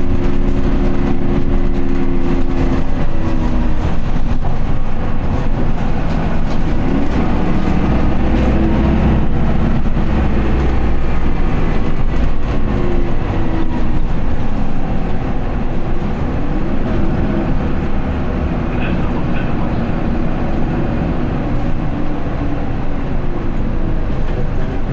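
Isuzu Erga city bus's diesel engine heard from inside the bus while driving, with steady road rumble. The engine note holds, then drops a couple of seconds in, and rises and falls again a few seconds later as the bus pulls away and eases off.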